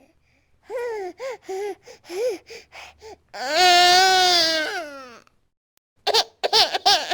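Baby crying in a rage: a run of short, catching sobs, then one long, loud wail about three and a half seconds in that drops in pitch as it fades, then more quick sobs near the end.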